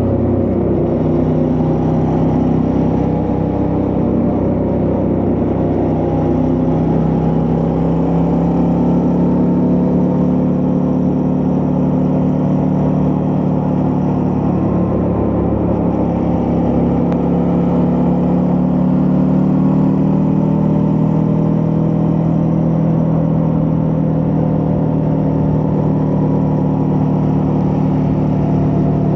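Suzuki V-Strom 650's 645 cc V-twin engine running on the move, its pitch rising and falling gently with the throttle.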